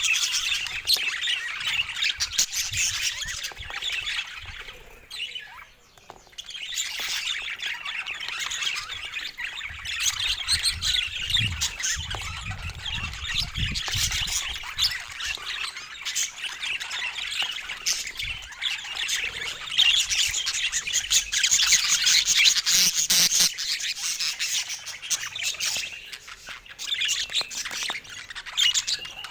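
Budgerigars chattering and squawking in a continuous, busy stream of high chirps, easing into a brief lull about five seconds in before picking up again.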